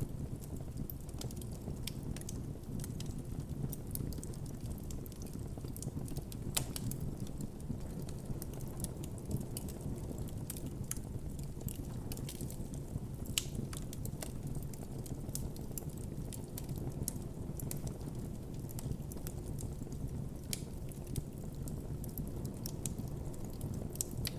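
Wood campfire burning with a steady low rumble of flame and frequent irregular crackles and pops.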